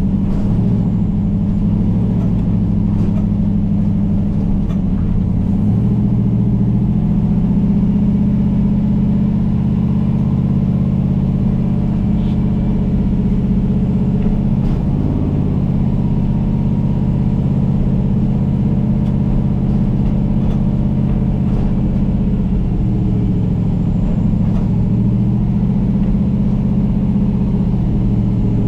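A vehicle engine running steadily, its pitch shifting slightly about six seconds in and again around twenty-three seconds.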